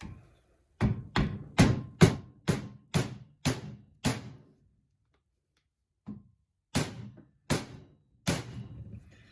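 Light hammer taps on a Ramsey worm-gear winch part during its rebuild: a run of about eight taps, a couple a second, then after a pause a faint tap and three more, evenly spaced.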